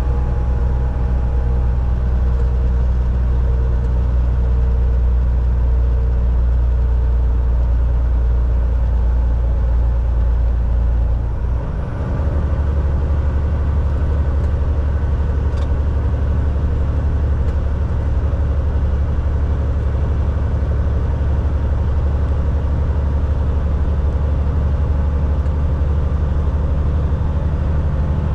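Volvo VNL 760 semi truck under way, heard from the cab: a steady low engine drone with road noise. About twelve seconds in the sound dips briefly, and then the drone settles at a slightly different pitch.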